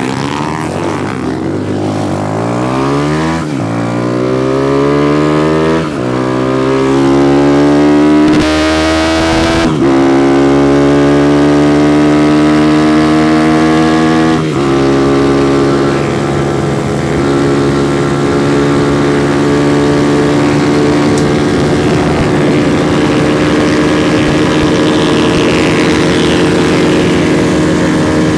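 Honda CG single-cylinder four-stroke motorcycle accelerating hard through the gears: the engine note climbs, drops at each upshift about 3.5, 6, 9.5 and 14.5 seconds in, then settles into a steady cruise. A brief rush of noise comes about eight seconds in.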